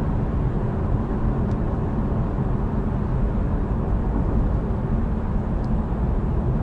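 Steady engine and tyre noise of a car driving along a highway, heard from inside the cabin as an even low rumble.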